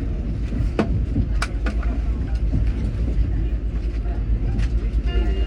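KTX-Cheongryong high-speed train running, a steady low rumble with a couple of sharp clicks about one and one-and-a-half seconds in. A few steady high tones set in near the end.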